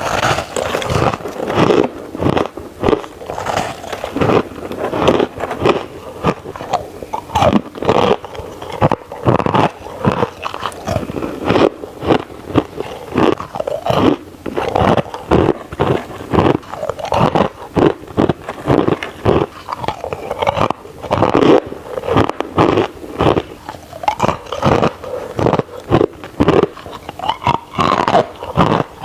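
Crushed ice being bitten and chewed close to the microphone: continuous crisp crunching, a few crunches each second.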